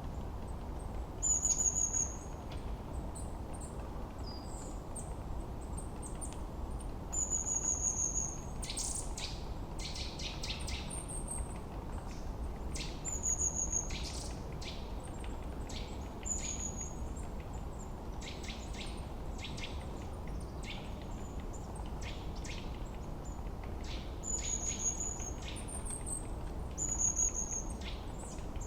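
Forest birdsong: one bird repeats a short, high whistled note every few seconds, while others give quick runs of sharp chips and trills through the middle, over a steady low background rush.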